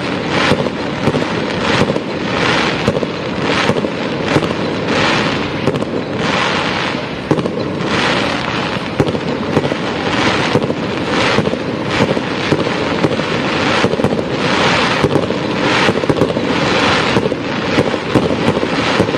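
Fireworks going off in a dense barrage: many sharp bangs in quick succession over continuous crackling.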